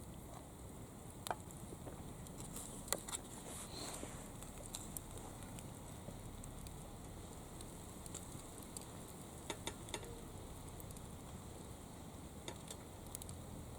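Small wood fire crackling: a low steady hiss with scattered sharp pops, a cluster of louder ones about three seconds in and again near ten seconds.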